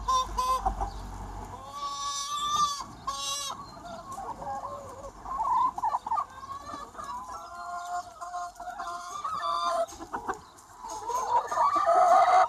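A large flock of free-range hens clucking and calling, many birds at once with short overlapping calls, loudest near the end.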